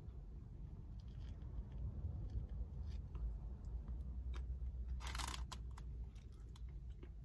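Chewing a mouthful of bread sub sandwich, with small wet clicks, over a steady low rumble. A brief hiss about five seconds in.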